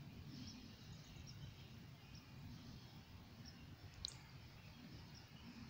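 Faint outdoor background with a low rumble and scattered small bird chirps, one sharper, higher chirp about four seconds in.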